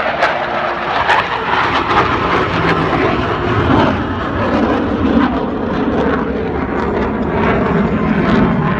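Military jet flying an air show display, its engine noise loud and steady.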